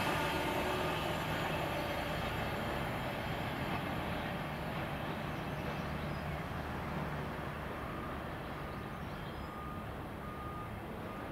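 A train that has just passed fades into the distance, its rumble dying away steadily. A few faint short high tones come near the end.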